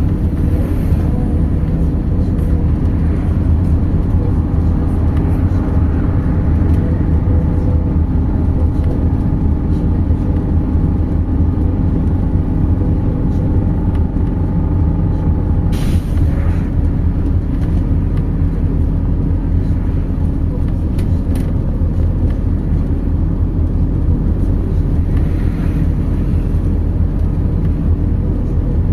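MAZ 206.067 city bus riding, heard from inside the cabin: a steady engine and road rumble, with a faint steady whine through the middle and a brief burst of noise about sixteen seconds in.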